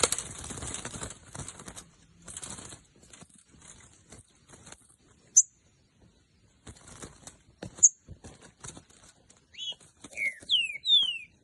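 A bird flapping its wings in short fluttering bursts, hardest at the start and then in scattered flurries, with two sharp high chirps in the middle and a few short whistled calls sliding downward near the end.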